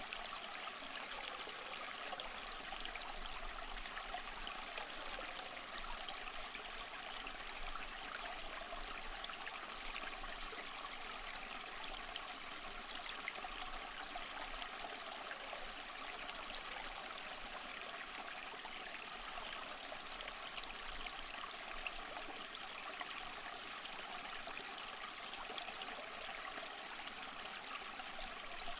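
A stream of water running steadily, burbling and trickling over stones.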